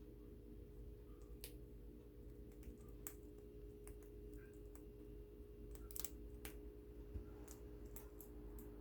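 Chinchilla nibbling and chewing a dry herb leaf: faint, irregular crisp crunching clicks, over a steady low electrical hum.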